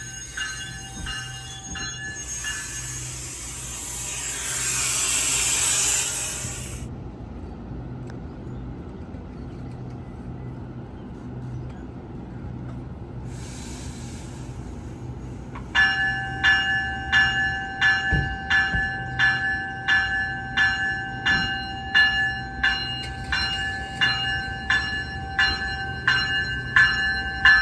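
Rail-crossing sounds at a level crossing. A passing train's rushing noise swells and dies away about seven seconds in. From about sixteen seconds in, the crossing's warning bell starts ringing at an even beat of about one and a half strikes a second, signalling that the gates are coming down for a train.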